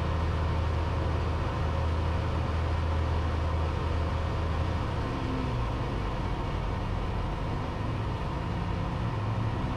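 Cessna 172's piston engine and propeller droning steadily, heard inside the cabin during the final approach, with a slight shift in the low drone about halfway through.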